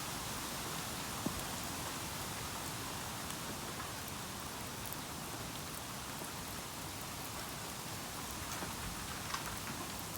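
Bamboo bonfire burning with a steady hiss and scattered small crackles, and a sharper pop about a second in and another near the end.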